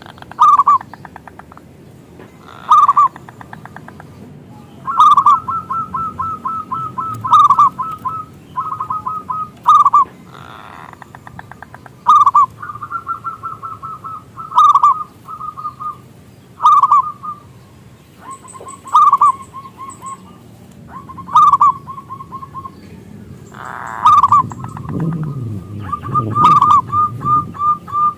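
Zebra dove (perkutut) cooing over and over: each phrase starts with a loud note and runs on into a quick string of short coos, a new phrase every couple of seconds. A low rumble sits under the calls near the end.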